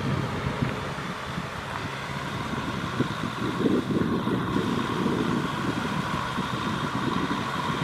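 Kubota M6040SU tractor's diesel engine running steadily while working through mud.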